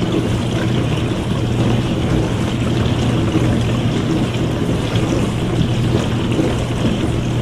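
Dishwasher running mid-cycle: water spraying and sloshing inside the tub over the steady hum of its pump motor.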